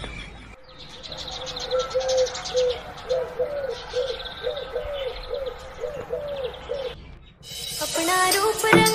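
A bird calls a long run of short, low hooting notes, about two a second, over faint high chirring. A film song with a beat starts near the end.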